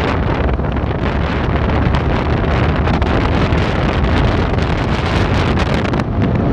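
Steady wind buffeting the microphone of a motorcycle riding at road speed, a dense rushing noise heaviest in the low end that masks the engine.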